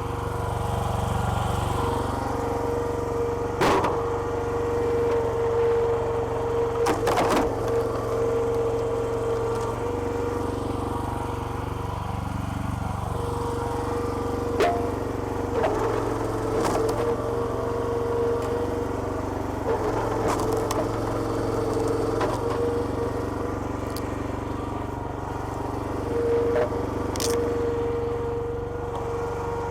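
Small petrol engine driving a hydraulic log splitter runs steadily while logs crack and split, with about ten sharp cracks scattered through.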